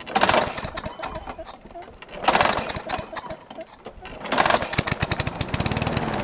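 Worn-out push mower engine with low compression, about 50 psi, being pull-started on its recoil starter. It takes three pulls, each a loud rasping crank, and catches on the third pull about four seconds in. It then runs with a fast, rough firing beat.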